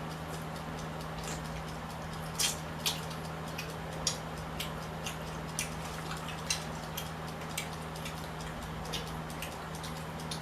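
Close-up eating sounds: irregular wet clicks and smacks from chewing, about one or two a second, the loudest pair a couple of seconds in, over a steady low hum.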